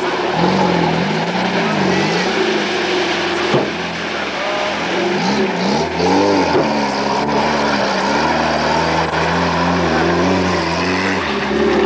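Jeep's engine revving up and down over and over as it drives through deep mud, its pitch rising and falling. A short click about three and a half seconds in.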